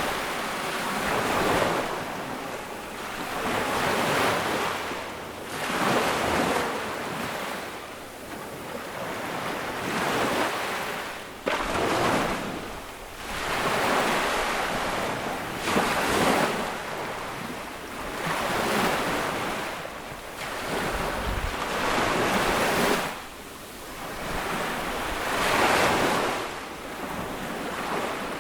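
Small ocean waves breaking and washing up on a sandy beach, a swell of surf every two to three seconds. A short sharp splash or knock comes about halfway through.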